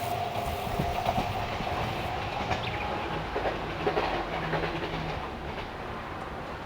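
Train running away after passing, its wheels clicking over rail joints while the sound fades steadily.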